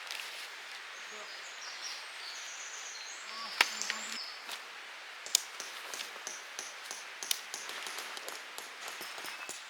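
Outdoor forest ambience with a steady hiss and birds chirping, broken by sharp clicks and taps of camping gear being handled during camp setup; two loud clicks come a few seconds in, and smaller taps come more often toward the end.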